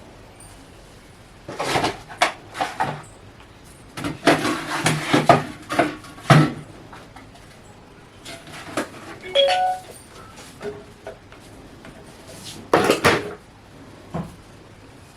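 Irregular knocks and clatter of household objects being shifted and set down, in several bursts, with a short ringing metallic clink about nine and a half seconds in.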